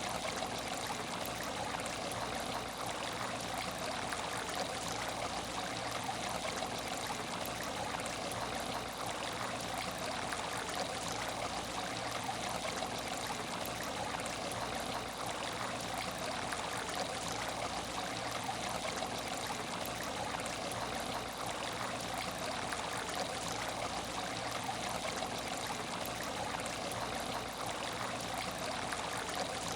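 Water trickling steadily in an empty aquarium tank, an even, unchanging splash with a faint steady hum underneath.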